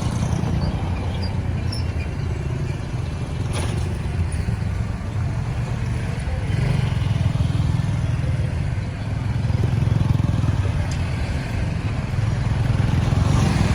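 Busy road traffic: a steady low rumble of vehicle engines and tyres that swells and eases several times, with one sharp click about three and a half seconds in.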